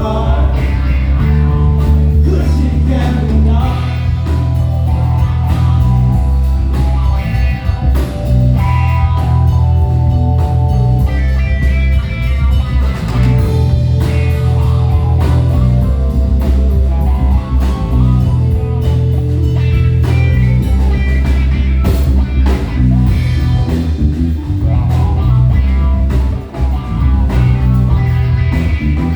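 Live band playing a blues-rock groove: electric guitar over bass guitar, drums and keyboard.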